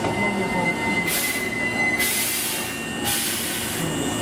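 Electric train at a station platform: a steady high-pitched squeal that stops about two seconds in, with loud bursts of hissing air about one, two and three seconds in.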